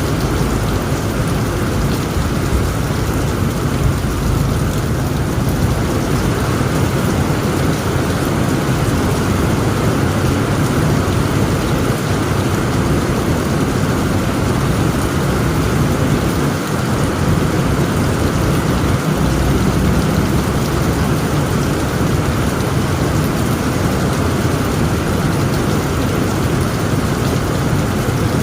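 Heavy rain pouring steadily on a tent roof, a dense unbroken hiss, with a deep low rumble of thunder underneath.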